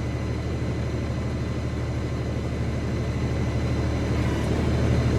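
LS compact tractor's diesel engine running steadily at low revs, with a fast even low rumble, growing slightly louder near the end.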